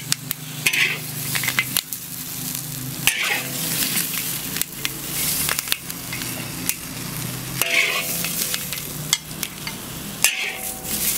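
Large red chili pieces sizzling in hot oil in a big iron wok, with a steady hiss and many sharp clicks and scrapes from a spatula against the wok as the peppers are scooped out.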